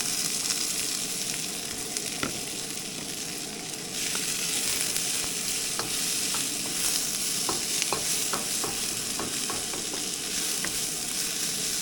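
Peas, carrots and green onions sizzling in hot peanut oil in a wok, a steady frying hiss with scattered light clicks and taps.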